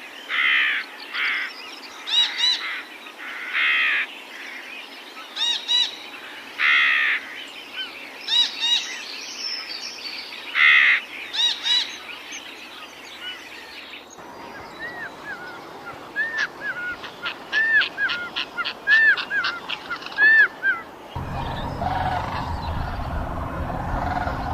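Birds calling: repeated harsh calls for the first half, then after a cut a quick series of short chirps. About three seconds before the end a steady low hum sets in.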